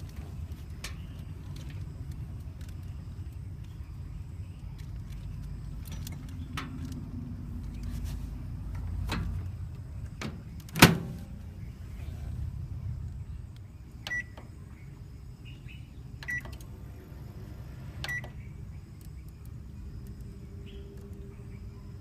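Microwave oven humming, then a single sharp knock about halfway through, followed by three short high beeps about two seconds apart, the signal that the cooking cycle has finished.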